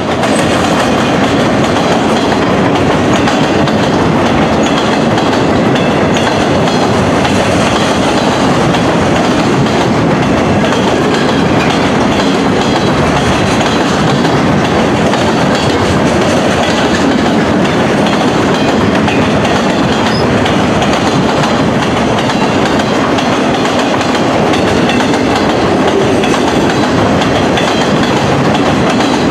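Freight train cars rolling past close by: a loud, steady rumble of steel wheels on rail with clickety-clack over the joints.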